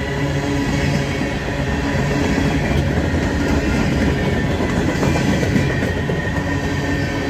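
An empty coal train's hopper cars rolling past at close range, a steady loud rumble with clickety-clack from the wheels on the rails.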